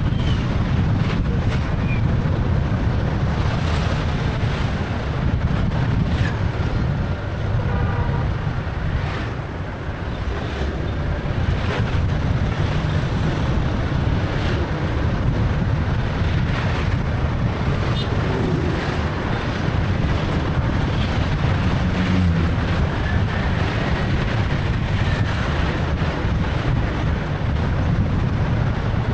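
Wind rushing over the microphone of a moving motorbike, over a steady low rumble of engine and road noise.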